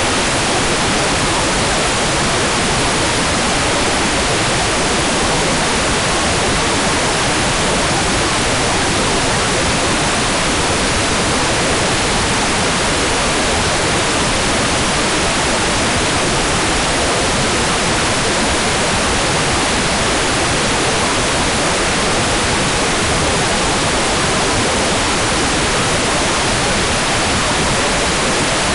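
Hair dryer running steadily: a constant, even rush of blowing air with no change in level or pitch.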